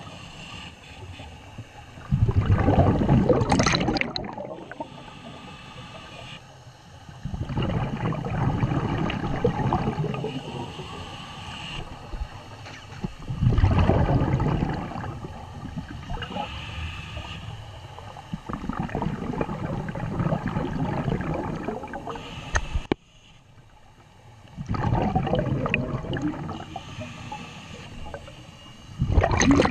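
Scuba diver's exhaled bubbles heard underwater, gurgling out of the regulator in loud bursts of two to four seconds about every five seconds, the rhythm of breathing, over a steady quieter hiss.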